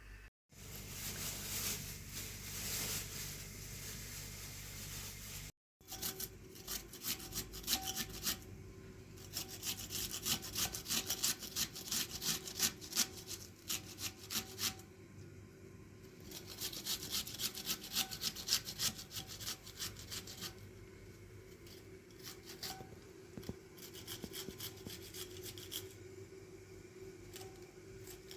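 Rapid, repeated scraping strokes in bursts of a few seconds, with a short pause between bursts.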